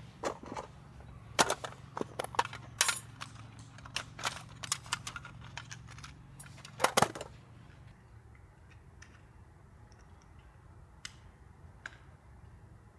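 Dry wood cracking and snapping in a quick run of sharp cracks, loudest near the end of the run. After that only a few scattered ticks follow.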